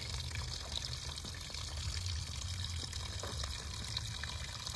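Water pouring or running steadily, an even rush of splashing.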